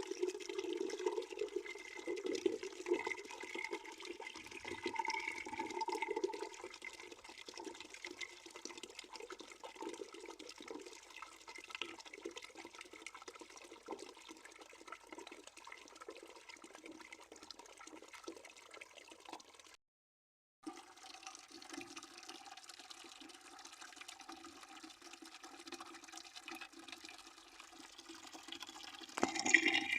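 Water running steadily into a bucket, a continuous splashing rush that is louder for the first few seconds. The sound drops out completely for about a second about two-thirds of the way through, and there is a brief louder burst near the end.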